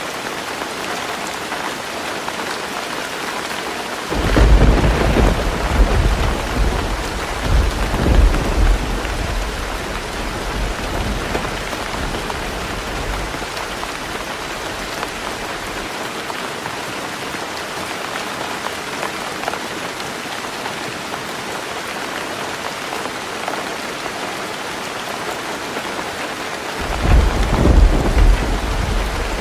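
Heavy rain falling steadily on a roof. Thunder rumbles in about four seconds in, loudest for a few seconds before fading, and rumbles again near the end.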